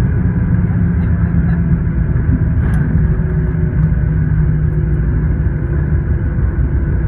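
Steady cabin rumble of a Boeing 737-900 on the ground after landing, the engines and airframe running with a low hum under the noise. There is a single short click about three seconds in.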